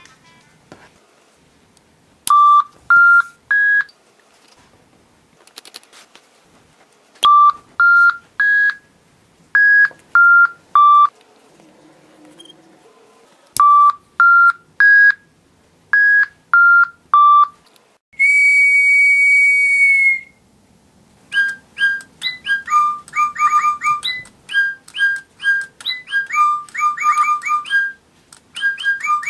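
Digi Birds electronic toy birds: short three-note electronic tone phrases, some rising and some falling, then a single steady whistle blast lasting about two seconds, after which the toy birds answer with fast electronic chirping birdsong.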